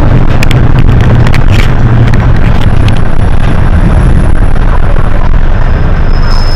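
Hino HS8JRVL-UTF city bus heard from inside the cabin while under way: a loud, steady low engine and road drone, with scattered rattling clicks.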